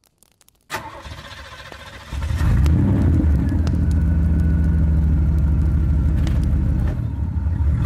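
Ford Mustang's 2.3-litre turbocharged EcoBoost inline-four starting up: a sudden start just under a second in, a louder step about two seconds later, then running with a steady low drone.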